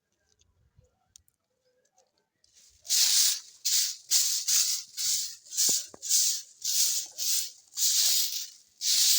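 Near silence with a few faint ticks, then, about three seconds in, a run of loud, rhythmic swishing hisses, about two strokes a second.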